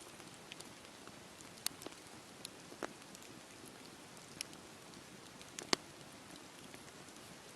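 Wood fire burning in a fireplace: a steady low hiss from the flames with scattered sharp crackles and pops, the loudest about three-quarters of the way through.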